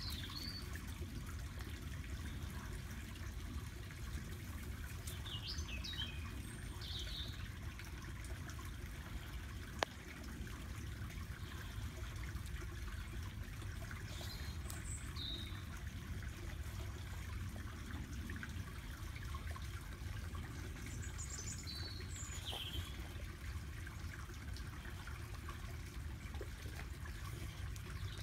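Small birds chirping in short calls now and then over a steady low rumble, with one sharp click about ten seconds in.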